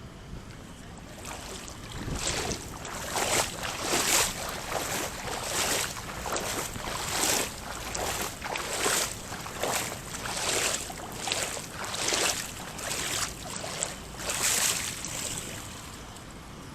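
Pool water splashing and sloshing in regular swells, about one surge a second, each a short rush of hiss.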